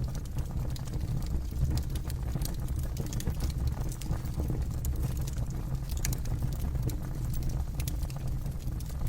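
Campfire burning, a steady low rumble of flames with irregular sharp crackles and pops from the burning wood.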